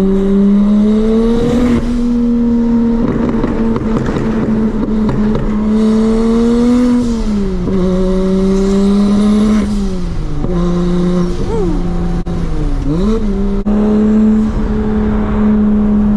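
Single-turbo BMW N54 straight-six in a 335i running under load on the road, its pitch mostly steady and dropping sharply then climbing back about three times in the second half. The owner reports the engine is misfiring at the top end and suspects a fueling problem.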